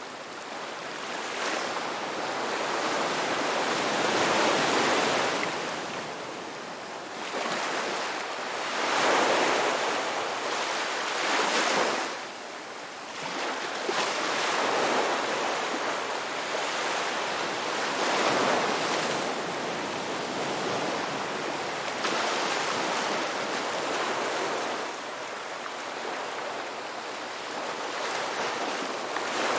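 Ocean waves breaking and washing on a rocky beach, swelling and ebbing every few seconds, with a louder surge about nine seconds in and another near twelve seconds.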